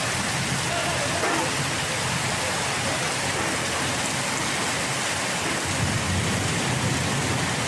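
Heavy rain falling steadily, a dense even hiss of rain pouring down onto the ground and surfaces.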